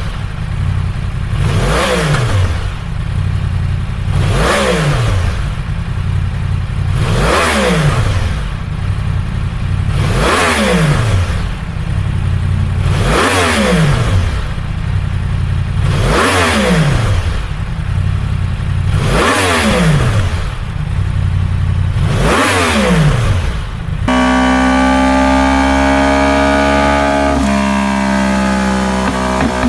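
Yamaha R1 inline-four with an aftermarket exhaust, revved again and again: each blip climbs and drops back, about every three seconds, some eight times. Music takes over for the last few seconds.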